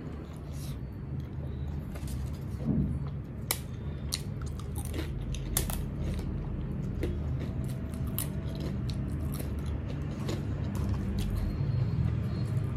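Close-up chewing of rice, dal and fried fish, with wet mouth sounds and many short sharp clicks and crunches, over a steady low hum.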